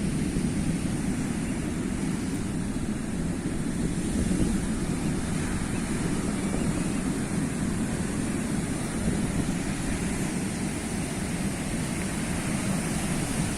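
Sea waves washing continuously onto the shore, a steady rushing surf without distinct breaks, with wind rumbling on the microphone.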